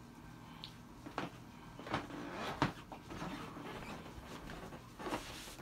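A few scattered knocks and clicks over low rustling, the sharpest about two and a half seconds in.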